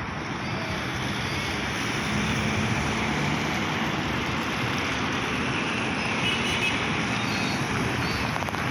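Road traffic with trucks passing: a steady mix of engine and tyre noise, swelling a little about two seconds in.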